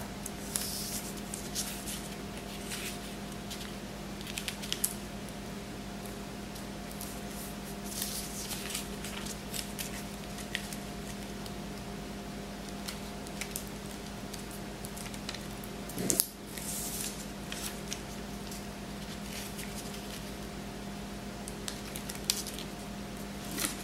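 A sheet of square origami paper rustling and crinkling as it is folded and creased by hand, in short scattered bursts, over a steady low hum.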